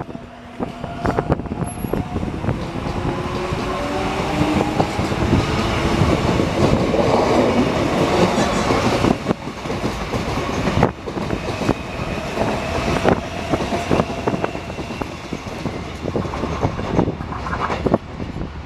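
Line 4 electric subway train running past the platform, its wheels clacking over rail joints under a heavy rumble. The electric traction motors whine in changing pitch.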